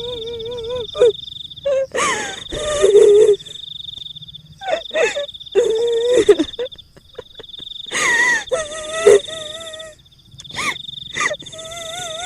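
Horror sound-effect mix of a kuntilanak ghost: a woman's voice wailing and crying in long wavering tones, cut by several loud short outbursts such as dog barks, over a steady high insect trill.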